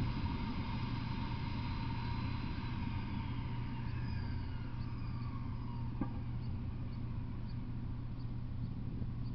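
A freight train that has just passed, going away: thin high ringing tones slowly fall in pitch and fade out about six seconds in, over a steady low hum. Faint short high chirps repeat about twice a second in the second half.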